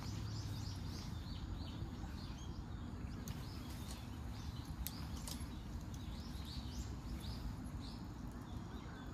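Small birds chirping in short repeated runs over a low steady rumble of outdoor ambience, with a few sharp clicks around the middle.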